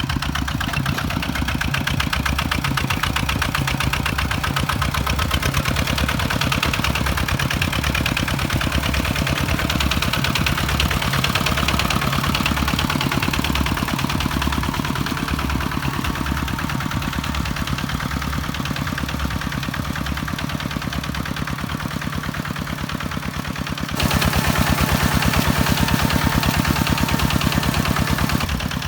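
Kubota tractor's diesel engine running steadily with a rapid low pulse, louder for a few seconds near the end.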